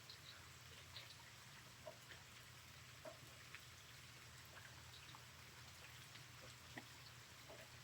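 Faint light rain: scattered raindrops ticking one by one against a soft hiss.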